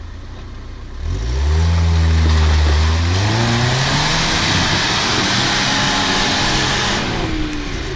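Off-road 4x4's engine revved hard in second gear as it tries to jump out of a rut: the revs climb about a second in, hold high for several seconds, then drop back near the end.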